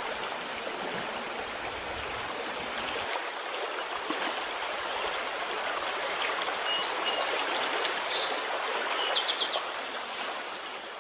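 Steady rush of falling water from a waterfall and its stream, with a few short high chirps over it about two-thirds of the way in.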